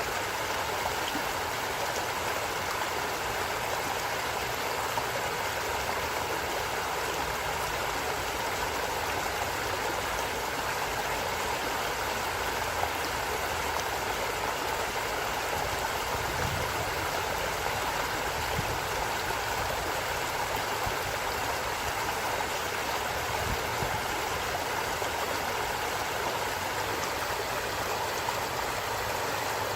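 Forest stream: water running steadily over rocks, an even rushing sound.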